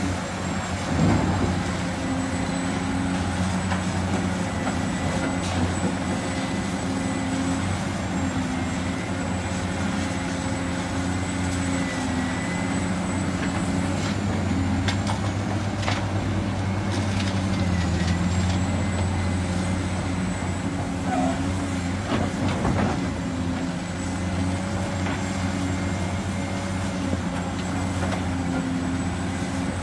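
Heavy diesel engines of excavators and dump trucks running steadily on a worksite, with a few knocks partway through.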